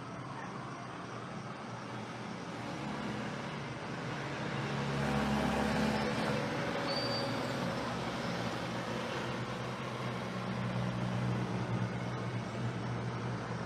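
Road traffic: a motor vehicle's engine hums steadily and swells as it passes, loudest with a deep rumble about five to six seconds in. A brief high tone sounds shortly after.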